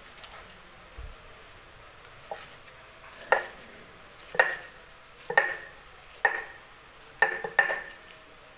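Kitchen utensils knocking: about six sharp clinks with a short ring, roughly a second apart, starting about three seconds in, the last two close together.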